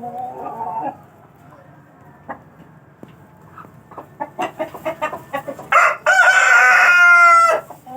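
Aseel chickens clucking in quick short notes, then a rooster crowing once, a long loud call that falls slightly in pitch near the end.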